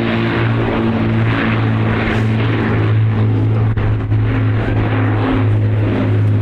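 Avro Lancaster's four Rolls-Royce Merlin piston engines droning steadily as the bomber flies a display pass, a deep even propeller-engine hum.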